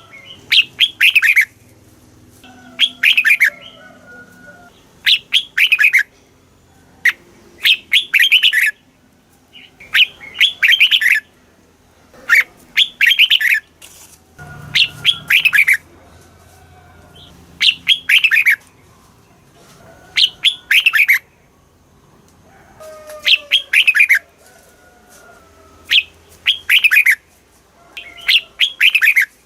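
Red-whiskered bulbul singing. It gives short phrases of quick falling notes, repeated about every one to two seconds.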